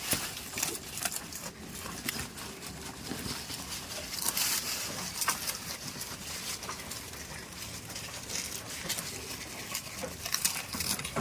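Goats moving about close by: rustling with scattered irregular taps and clicks, and no bleating.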